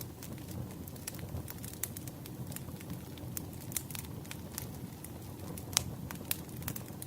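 Campfire burning: a steady low rush of flames under frequent irregular sharp crackles and pops, with two louder pops near the end.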